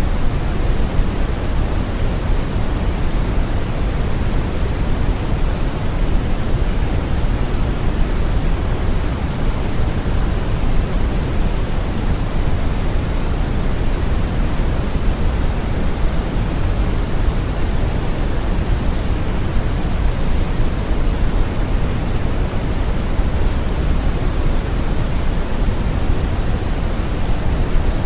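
Steady, continuous brown noise: a deep, even rushing hiss with most of its weight in the low end and little treble, unchanging throughout.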